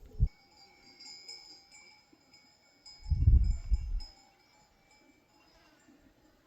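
A metal sheep bell ringing, its tone hanging and fading away over a few seconds. About three seconds in, a loud low rumbling thump lasting about a second.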